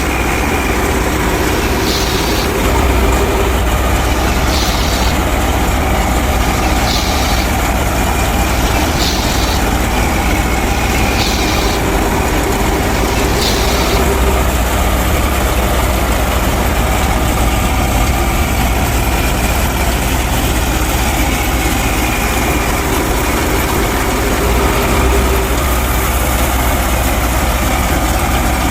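Engine running steadily with a low drone. During the first half a short high hiss repeats about every two seconds.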